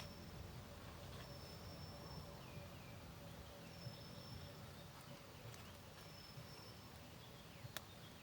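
Quiet forest ambience with a bird repeating one thin, high, steady whistle note, each note under a second long and about two seconds apart. A sharp click near the end.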